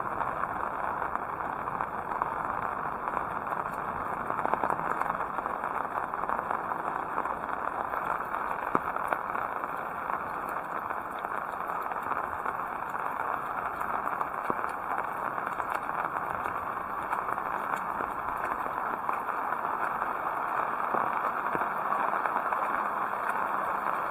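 Heavy rain falling steadily: a dense, even hiss with many small sharp taps of drops scattered through it.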